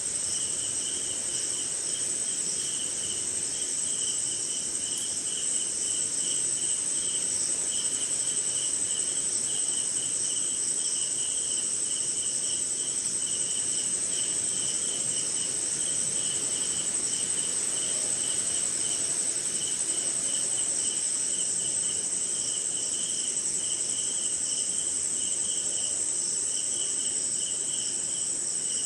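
Night chorus of crickets and other insects: a steady, high-pitched trill with a lower chirping that pulses several times a second over it.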